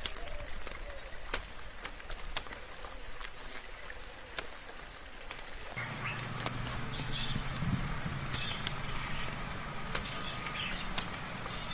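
Rain dripping in sharp, scattered drops, with short high bird chirps now and then. About halfway through, a low steady sound comes in and holds.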